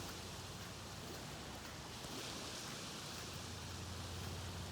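Small waves lapping gently on a lake beach, a steady soft wash of water with no wind to speak of.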